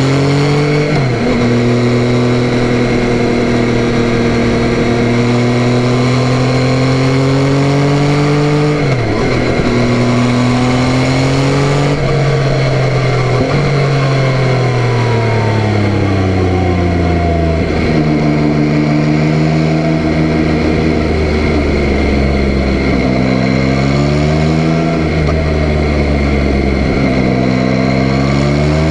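Yamaha Tracer 9's 890 cc inline three-cylinder engine under way. Its pitch rises under acceleration and drops sharply at upshifts about a second in and again around nine seconds. It winds down slowly for a few seconds as the bike slows, then rises and dips again through the rest.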